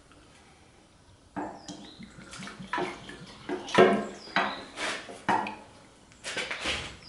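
Whisky pouring out of a bottle into a motorcycle fuel tank, glugging in irregular splashy gulps that start about a second in.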